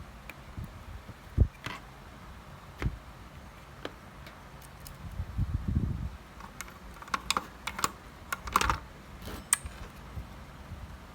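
Irregular small clicks and taps, bunched together in the second half, with a single dull thump about a second and a half in and a short low rumble about halfway through.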